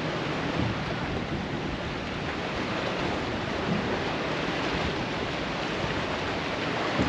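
Steady rushing noise of waves on the shore.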